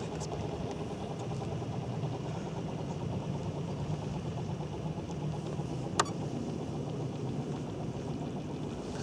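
A 700-size, five-blade MD 500E scale RC helicopter running with its sound module, giving a steady engine-like drone. A single sharp click about six seconds in.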